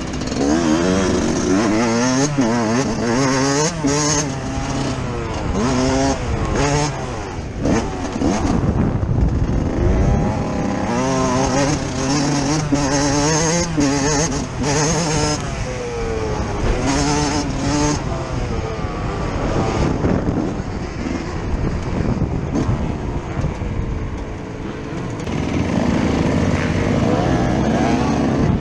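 Yamaha YZ125 two-stroke single-cylinder engine heard from on board, repeatedly revving up and dropping back as the rider works the throttle and gears around a motocross track. Around eight to ten seconds in the engine note gives way to a rougher, low rumble, with knocks from the bike over the ground throughout.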